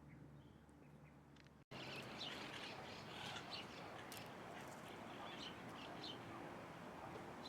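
Birds chirping: many short, high calls over background hiss. The sound drops out abruptly about a second and a half in and returns louder, with denser chirping.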